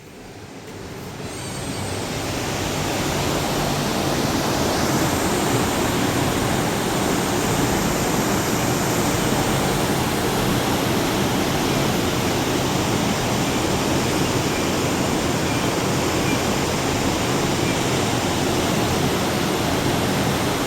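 Loud, steady rush of flowing water, a river or falls heard through an open window. It swells over the first two or three seconds and then holds even.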